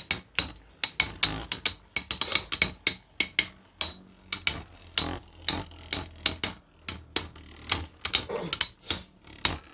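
Two 3D-printed plastic Beyblade tops spinning and clashing in a stadium: a rapid, irregular run of sharp clacks and knocks over a low steady whir.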